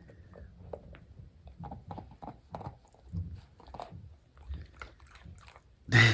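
German Shorthaired Pointer puppy chewing on a piece of ice, in short irregular crunches, with a louder noise just before the end.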